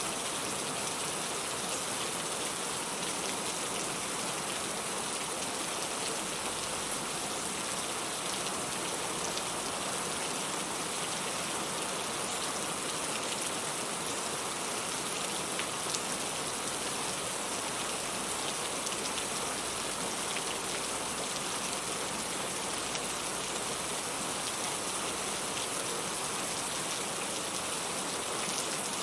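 Steady rain falling: an even hiss with many small, scattered drop ticks, unchanging throughout.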